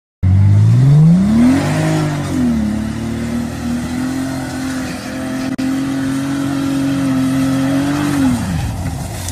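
Bentley Continental GT's engine revving hard as it spins its wheels in loose dirt: the pitch climbs quickly in the first couple of seconds, holds high and steady for several seconds, then drops away near the end.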